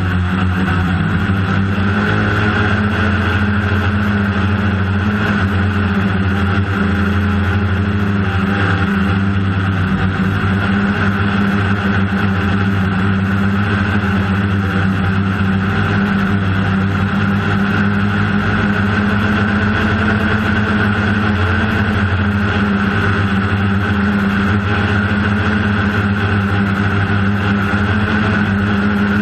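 DJI Phantom quadcopter's motors and propellers whirring at a steady pitch, heard from the drone's own camera in flight.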